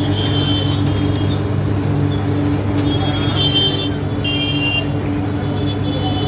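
Road traffic noise: a steady low engine hum with a few short, high-pitched tones scattered through it.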